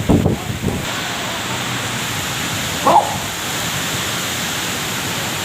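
Heavy rain pouring down in a steady hiss. One short call breaks through about three seconds in.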